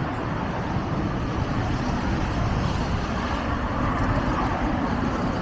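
Steady city road traffic noise with a constant low rumble, heard while riding a bicycle along the street.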